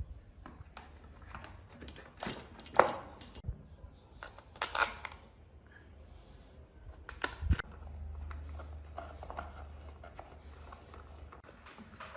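Scattered clicks and knocks of tools and parts being handled on a workbench, the loudest a sharp knock about three seconds in, with a low steady hum from about eight seconds to eleven.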